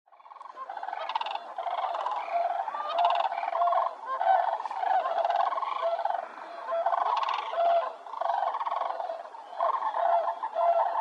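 A large flock of birds calling, many loud rattling calls overlapping in a continuous chorus that fades in over the first second.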